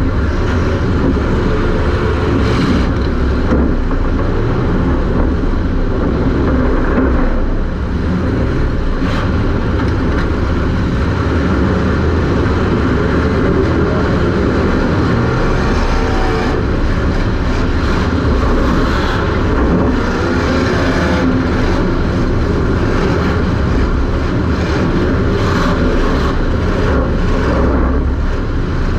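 Super Stock race car's engine running hard at racing speed, heard from inside the car. It is loud and steady, with a brief dip about eight seconds in.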